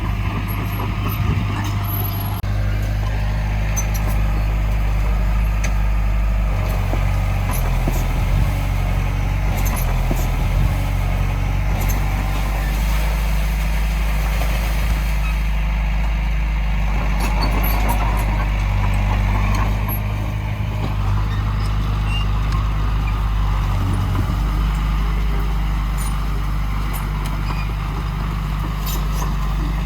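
Heavy diesel earth-moving machinery running steadily, a continuous low engine drone with scattered clicks and knocks.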